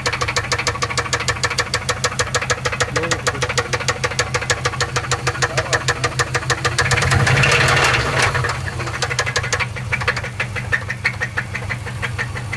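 Subaru Forester SF5's EJ20 flat-four engine running with a loud, fast, regular knock on every few revolutions, briefly louder about seven seconds in. The owner fears the knock means the engine is finished.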